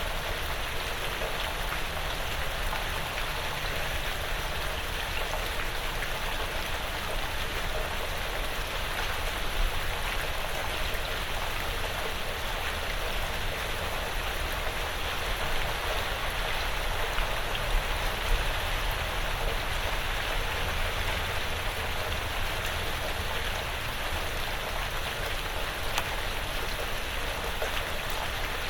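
Steady light rain falling on a porch roof and the surrounding woods, an even hiss of drops with a few louder single drips.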